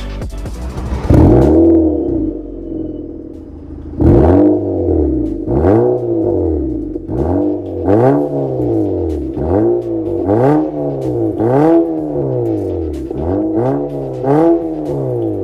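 Nissan Sentra B18's 1.6-litre HR16DE four-cylinder revved through an MS-R valved cat-back exhaust. The engine is blipped once, then again and again about once a second, each rev rising and falling in pitch.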